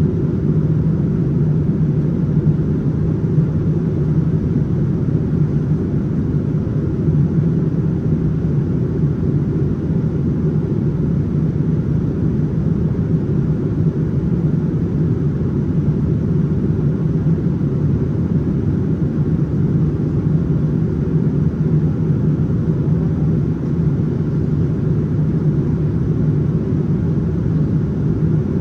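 Steady cabin noise inside a Boeing 787-9 airliner in flight: engine and airflow rumble with a steady low hum, unchanging throughout.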